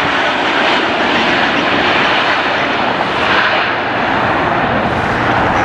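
Jet engines of a wide-body airliner close by, a loud steady rush of jet noise.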